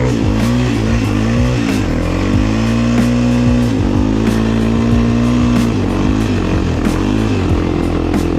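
Honda TRX400EX quad's single-cylinder four-stroke engine being ridden, revving up and down repeatedly as the throttle is worked, held at a steady pitch for a couple of seconds midway.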